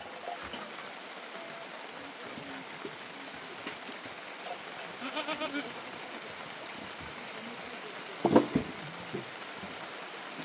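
Steady hiss of heavy rain, with a short bleat about five seconds in and a louder, brief call a little after eight seconds.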